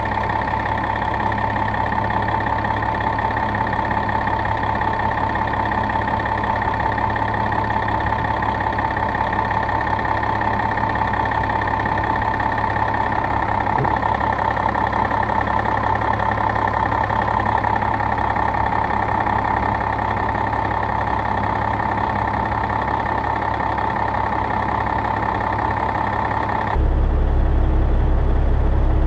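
Caterpillar diesel engine of a Western Star 4964F truck idling steadily, with a high, even whine over the engine noise. Near the end the sound changes abruptly to a deeper, slightly louder running.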